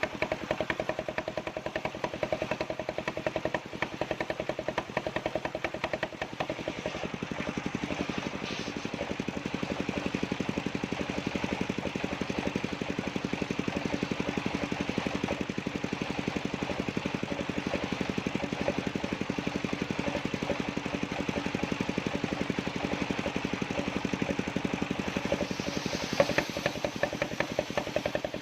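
Engine of a circular-saw sawmill rig running with a fast, even beat. About six to eight seconds in, its pitch drops and stays lower. There is a brief louder knock near the end.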